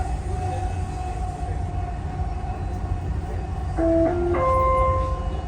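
Dubai Metro train running, with a steady low rumble and a steady whine. About four seconds in, a short three-note electronic chime sounds, the signal that comes before an onboard station announcement.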